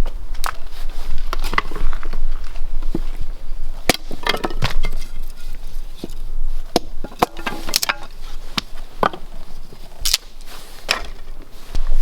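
Firewood being chopped: a blade strikes wood in a series of sharp, uneven blows, roughly one a second, with a quick run of hits about four seconds in.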